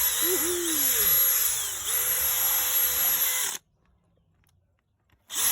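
Electric drill spinning a tyre-repair reamer (rasp) into the puncture hole to enlarge it for a plug. The motor note dips in pitch several times early on, then runs steady, stops about three and a half seconds in, and starts again just before the end.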